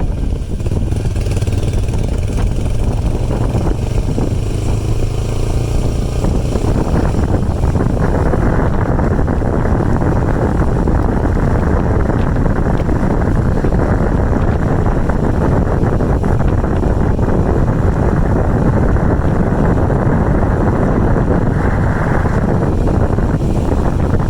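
Motorcycle engine running while riding, under heavy wind noise on the microphone. A steady low hum shows clearly for the first several seconds and then sinks into a loud, even rush.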